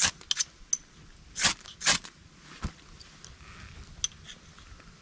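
Ferrocerium rod struck with a striker to throw sparks onto tinder: about six short, sharp rasping scrapes in the first three seconds, then quieter.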